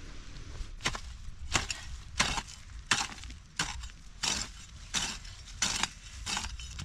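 Repeated chopping: about ten sharp strokes in an even rhythm, roughly one every two-thirds of a second, starting just under a second in.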